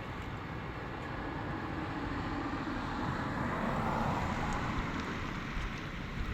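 A car driving past: its road noise swells to a peak about four seconds in and then fades, the engine tone dropping in pitch as it goes by.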